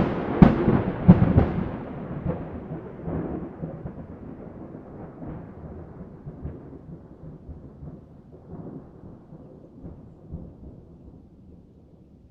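Thunder: a close clap of several sharp cracks in the first second or so, then a long rolling rumble that slowly fades.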